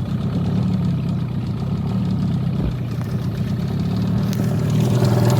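Small boat's motor running steadily, picking up with a brighter, louder sound a little over four seconds in as the boat gets under way.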